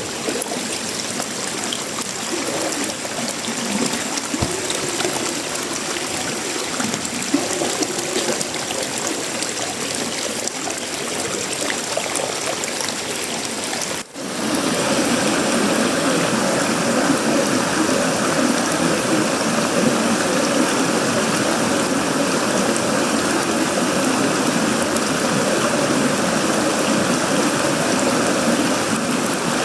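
Steady tropical rain falling on a sheet-metal roof, wood and leaves, with water trickling. It cuts out for an instant about halfway through, then resumes slightly louder.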